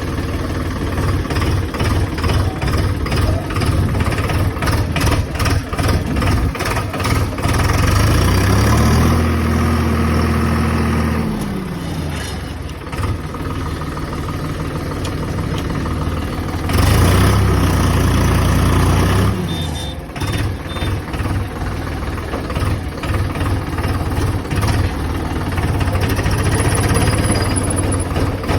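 Tractor engine running with an uneven, pulsing beat, revved up and back down twice, about eight seconds in and again about seventeen seconds in.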